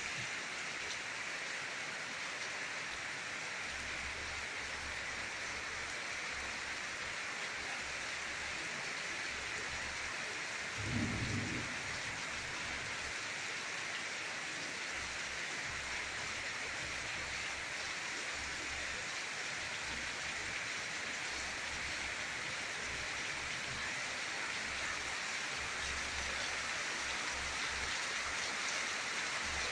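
Steady rain falling, an even hiss, with one brief low sound about eleven seconds in.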